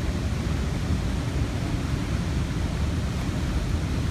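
Steady rushing noise of falling water, with a low rumble underneath.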